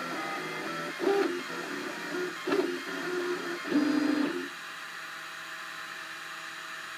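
Cubify 3D printer's stepper motors singing in short pitched tones that jump to a new pitch every half second or so as the print head moves. About two-thirds of the way through, the tones give way to a steadier, quieter hum.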